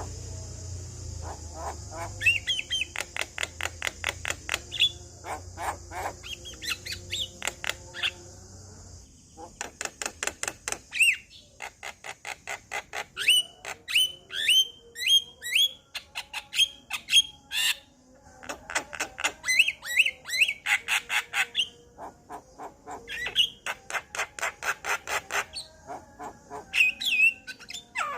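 Male Javan myna (jalak kebo) singing: bursts of fast clicking, rattling notes mixed with sharp chirps and squawks, broken by short pauses. A steady high hiss sits under the first third.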